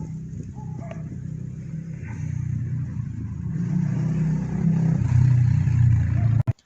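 A motor or engine running with a steady low hum that grows louder and cuts off abruptly near the end.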